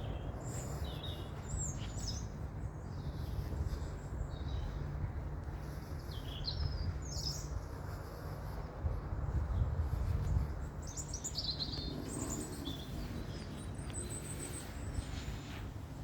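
Songbirds chirping and calling in short, scattered bursts of high notes, over a steady low rumble.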